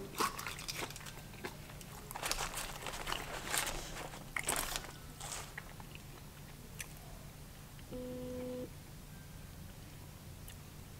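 Close-up biting and chewing of a fried Cajun flounder fish sandwich, with crisp crunching in the first five seconds or so. A short low hum comes in briefly about eight seconds in.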